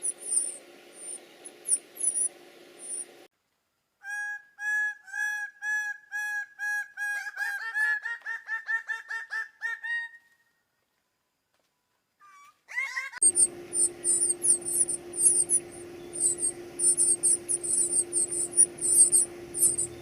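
Bird calls in three cut-together stretches. Sharp high-pitched chirping over a steady hum opens and closes the window. Between them comes a series of clear whistled notes that rise slightly in pitch and quicken, then stop.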